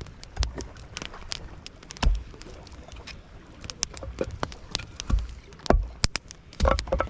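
Campfire crackling with sharp, irregular pops and ticks, and a few dull thumps now and then.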